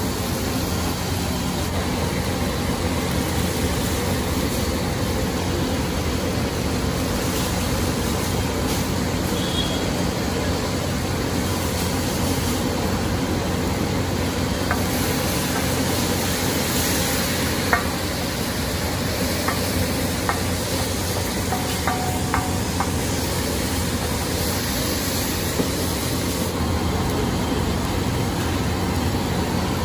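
Chopped onions and tomatoes sizzling on a large flat iron tawa, with a metal spatula now and then scraping and tapping the griddle, a few sharp taps in the second half. A steady low rumble runs underneath.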